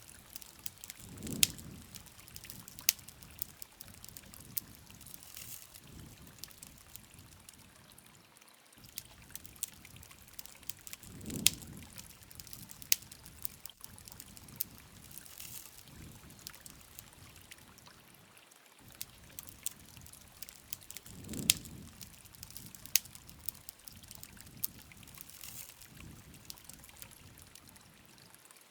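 Wood campfire crackling, with many sharp pops and snaps over a soft hiss. A low, soft whoosh swells up about every ten seconds.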